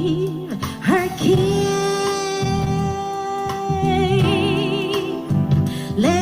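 Philips MCM275 micro hi-fi playing an FM radio broadcast of a song: a singer holds long notes with vibrato over sustained band chords and a bass line.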